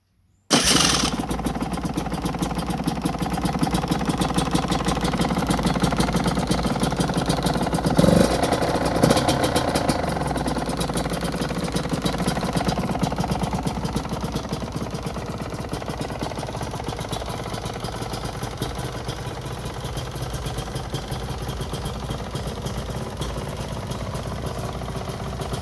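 Gas Gas 200cc two-stroke enduro engine fires up on its retrofitted electric starter about half a second in and runs at a steady idle. Two brief blips come around eight and nine seconds in.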